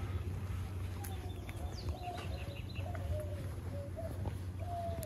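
A bird calling a string of short, mid-pitched notes, about two a second, with a few higher chirps from another bird about two seconds in, over a low steady rumble.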